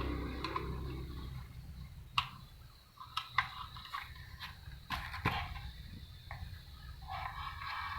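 Sharp clicks and light knocks of small plastic and metal parts being handled during disassembly of a receipt printer, coming irregularly about ten times. A low rumble fades out over the first second and a half.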